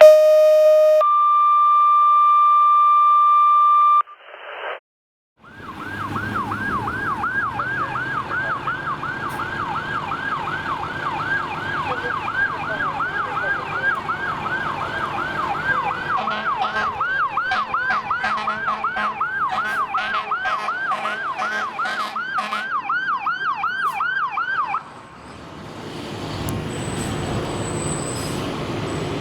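Fire engine electronic sirens sounding a fast rising-and-falling yelp, with a second siren joining about midway. Near the end the sirens cut off and a heavy truck engine runs. The first few seconds are a steady electronic tone that changes pitch once.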